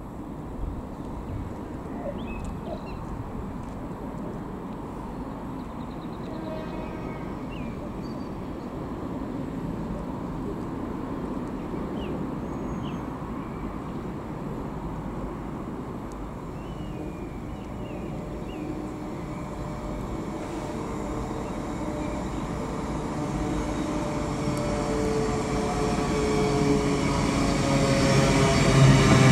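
Great Western Railway Hitachi Intercity Express Train approaching along the platform, its running noise growing louder over the last several seconds as a hum and several steady tones rise out of it. A few faint chirps in the first half.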